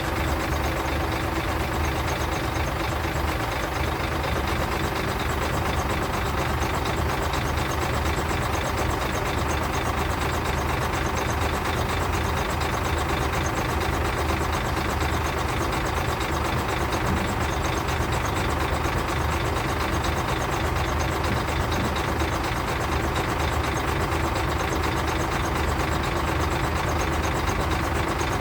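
Diesel engine of a self-loading concrete mixer truck running steadily at an even speed.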